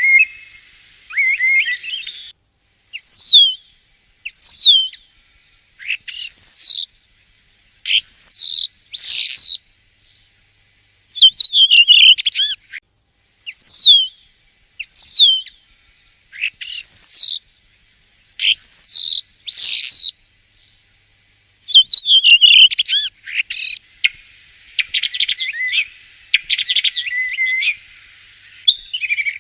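Common starling singing: a string of short sliding whistles, many falling in pitch, in phrases with brief pauses between them, turning to a dense rattling chatter near the end.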